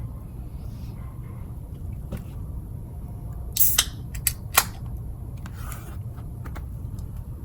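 A person biting into food, with three sharp, crisp snaps a little past the middle, over a steady low rumble.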